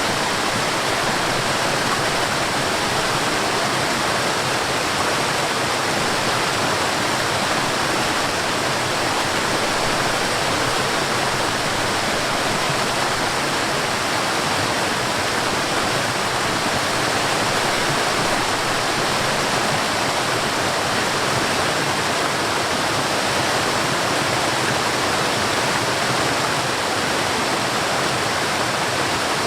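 Forest waterfall: water falling and rushing in a steady, unbroken hiss-like roar.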